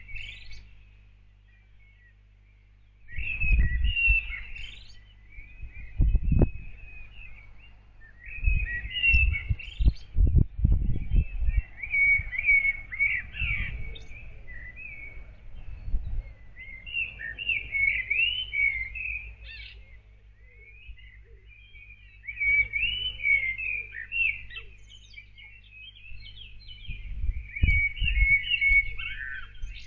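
A songbird singing at dawn in warbling, chirpy phrases of a few seconds each, repeated with short pauses. A steady low hum runs underneath, and a few low, dull thumps come in with several of the phrases.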